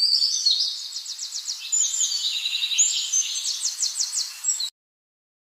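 Forest birds singing and chirping over a steady high hiss, with quick trills of repeated notes. The sound cuts off abruptly near the end.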